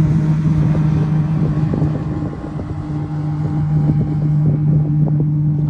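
Boat engine running at a steady pitch, with wind buffeting the microphone.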